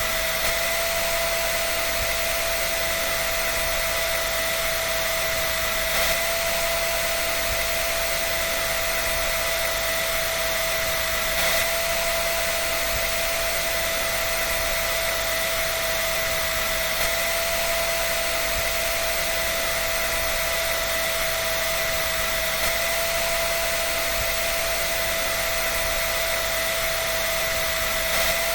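Hair dryer running steadily: an even rush of air with a steady whine from its motor and fan, unchanging throughout.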